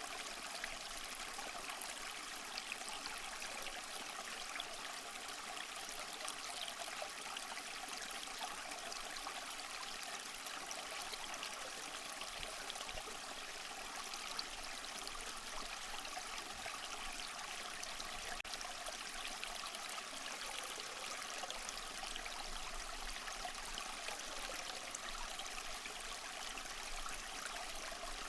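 Small mossy waterfall splashing and trickling steadily, a constant bright hiss of falling water with fine splatter.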